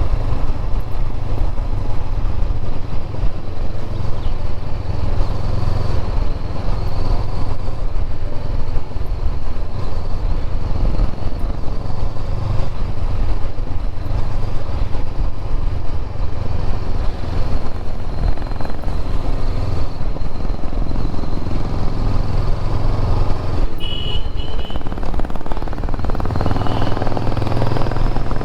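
Motorcycle engine running steadily under way, with rushing noise over the microphone. A few short high-pitched notes sound about 24 seconds in and again shortly after.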